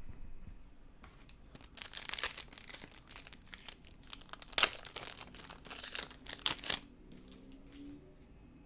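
A baseball-card pack wrapper crinkling and tearing as it is opened. It makes a run of crackles lasting about five seconds, with one sharp rip near the middle.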